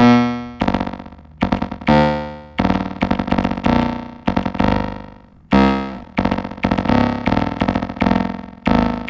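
Elektron Digitakt playing a sequenced synth bass line: short pitched notes that start sharply and die away, changing pitch from note to note, with some notes retriggered in quick stutters.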